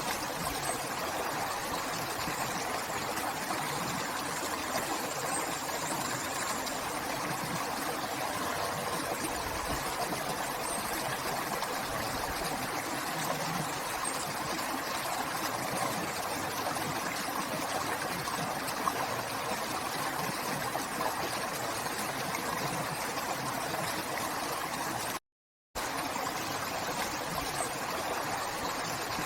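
A river flowing: a steady rush of running water, broken once near the end by a split-second gap of silence.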